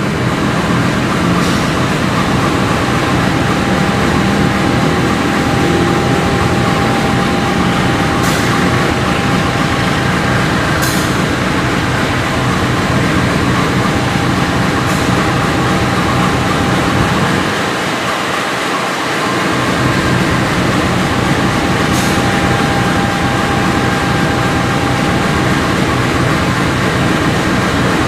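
Long passenger train pulling out of the station and moving away, a steady running noise with a constant hum and a few sharp clicks scattered through it.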